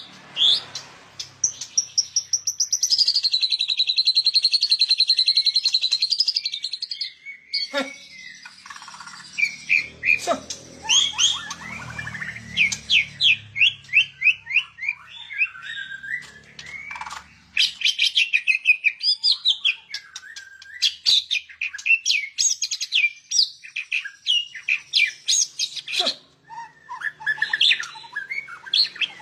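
A songbird singing a long, varied song: a sustained warbling trill for the first several seconds, then runs of quick, sharp whistled notes repeated in rapid series.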